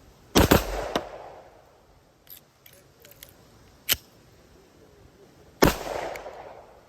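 Two 9mm pistol shots from a PSA Dagger Glock clone with a G-Flex trigger, about five seconds apart, each ringing out. Between them come a few light clicks and a single sharp crack. The pistol is short-cycling: the slide isn't coming back far enough to eject and feed the next round, which the shooter suspects is the recoil spring weight.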